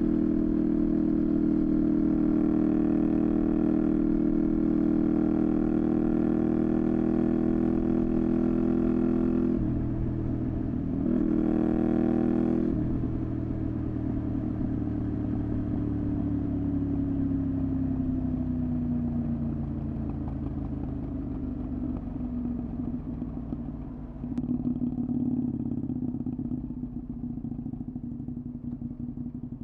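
Honda VTR250's V-twin engine through a Moriwaki exhaust, running at steady revs, then a dip and a brief rev burst about ten seconds in. The pitch then falls slowly as the bike slows, settling into a lower, steady run near the end.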